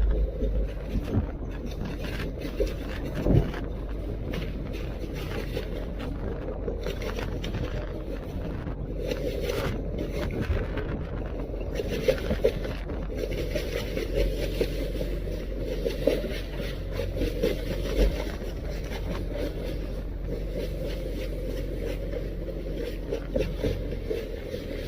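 Steady low rumble aboard a small fishing boat in rough sea, its engine and the wind running together, with scattered knocks and bumps as the hull is hit and tossed.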